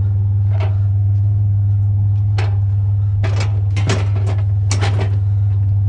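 Steady low drone of a truck on the road, heard from inside the cab, with several short sharp clicks or squeaks scattered through it.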